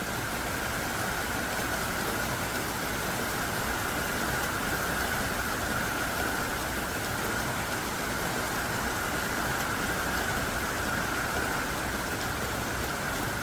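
Heavy, pelting rain falling steadily as a dense, even downpour.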